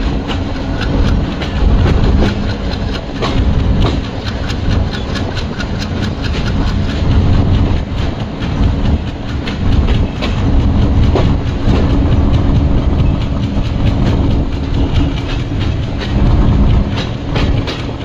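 Diesel-hauled train running along the track: a steady heavy rumble of wheels on rails with irregular clacks over the rail joints, under the locomotive's steady engine drone.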